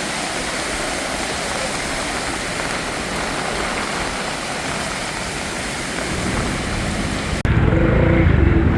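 Heavy rain falling, a steady even hiss. About seven seconds in it cuts off abruptly into a louder, deeper rumble with a few steady tones.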